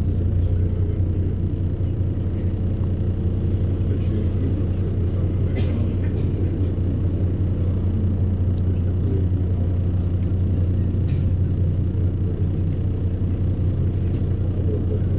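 City bus engine running steadily, a low drone heard from inside the bus, with a few faint rattles.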